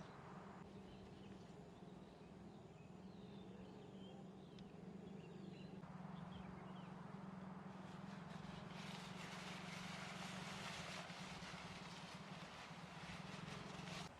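Faint outdoor ambience with a low steady hum underneath: small birds chirping in the first half, then a rush of strong wind through trees building from about nine seconds in.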